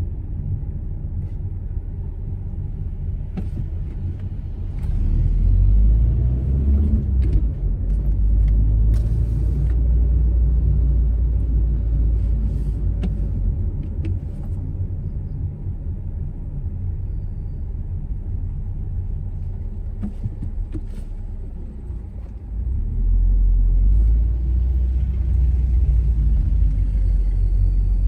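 Proton Saga's 1.3-litre four-cylinder engine and road noise while driving, a steady low rumble. It grows louder about five seconds in, eases off mid-way, and grows louder again near the end.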